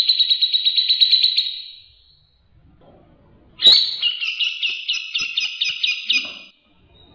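A songbird singing rapid, rattling trills of many quickly repeated high notes, the fast 'tembakan' phrases prized in bird-song master recordings. One trill fades out about two seconds in; after a short pause a second one starts abruptly and runs for about three seconds.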